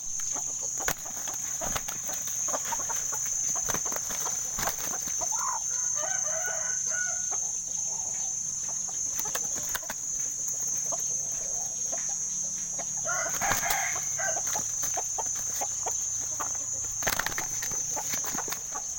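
Chickens, fighting cocks, calling twice: once about a third of the way in and again about two-thirds in. A steady high-pitched hiss and many scattered sharp ticks run underneath.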